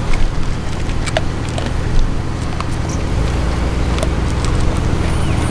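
Steady low rumble of a vehicle engine running, with a few faint clicks.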